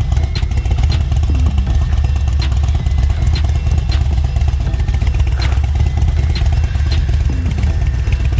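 Harley-Davidson motorcycle's V-twin engine running steadily at low speed, with a few light ticks over it.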